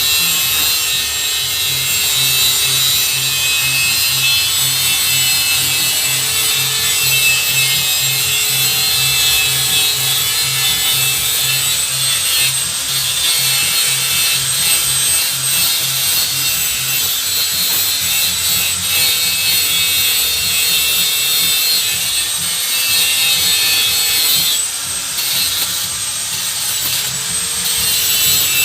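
A power tool running steadily through a long continuous cut or grind, a hissing rasp with a steady high whine.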